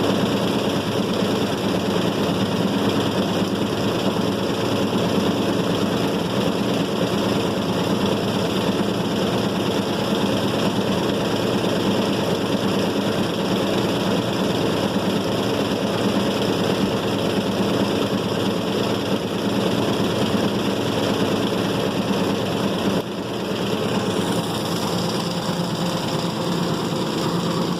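White-Westinghouse washing machine running with a steady motor hum; the sound drops a little and changes about 23 seconds in.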